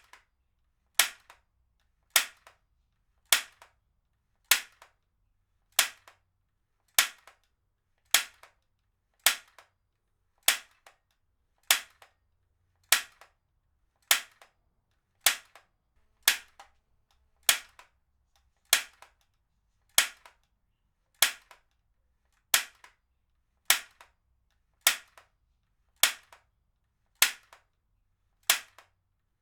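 Heavy-duty stapler firing again and again, one sharp snap about every second and steady throughout, each followed by a faint smaller click.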